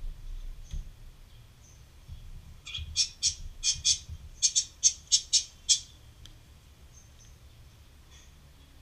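A bird calling a rapid series of about a dozen short, sharp high notes, around four a second, lasting about three seconds. Fainter single high calls come before and after it.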